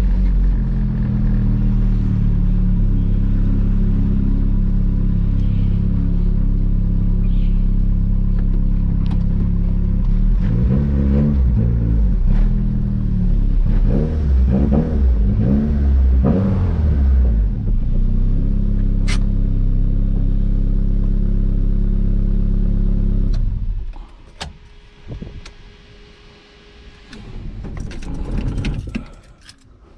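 Turbocharged Honda Civic engine running under way, revving up and down several times in a row around the middle, then running steadily until its sound drops away sharply near the end. With the check engine light on for a vehicle speed sensor (VSS) code, the engine does not go into VTEC as it revs.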